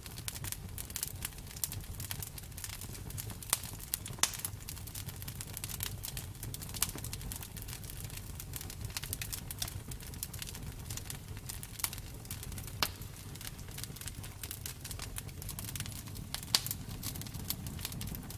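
Bonfire crackling: a constant stream of sharp pops and snaps, a few louder than the rest, over a low rumble of burning.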